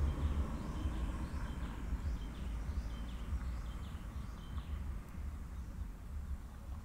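A small bird chirping over and over, a dozen or so short high chirps that stop about four seconds in, over an unsteady low rumble of wind on the microphone.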